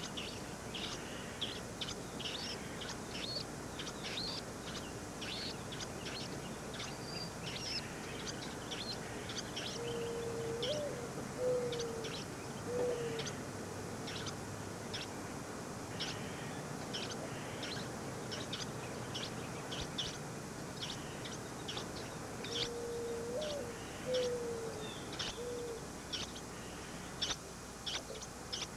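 Birds chirping with short, high, rapid calls throughout. Twice, a low cooing call of three or four notes sounds beneath the chirps.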